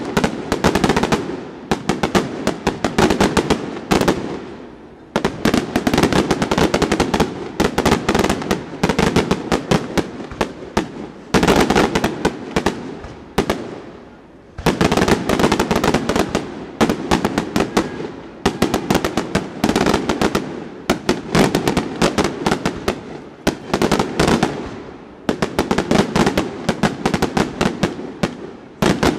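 Daylight aerial fireworks exploding overhead in a continuous barrage of rapid, sharp bangs and crackling, coming in dense volleys with a few brief lulls between them.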